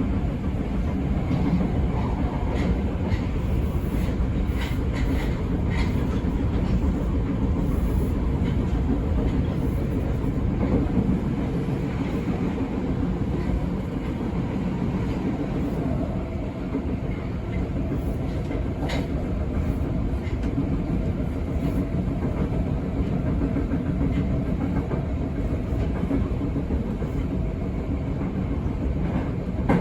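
Kita-Osaka Kyuko 9000 series electric train, with Toshiba PMSM traction motors, running between stations, heard from inside the car: a steady rumble of wheels and running gear with occasional clicks over the rails.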